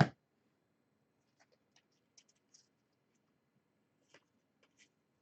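A single sharp knock at the very start, then faint, scattered clicks and scrapes of baseball trading cards being handled and flipped through.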